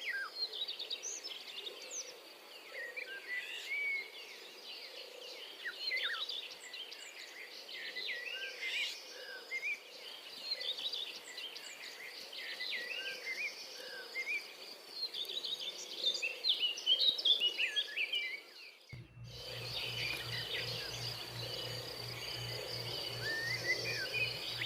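Many small birds chirping and twittering at once, a dense chorus of short calls, over a steady high tone. About nineteen seconds in the background changes abruptly and a low pulsing hum joins in while the birdsong goes on.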